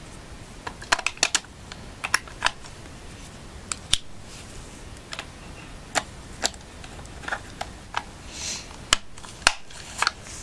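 Irregular sharp plastic clicks and knocks as the cleaned parts of an iRobot Roomba 650 robot vacuum are fitted and snapped back into place, with a brief rustling swish near the end.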